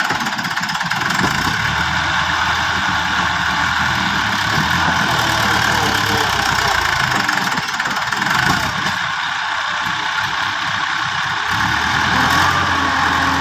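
Massey Ferguson 285 tractor's diesel engine running steadily, driving the hydraulics that tip a loaded trolley.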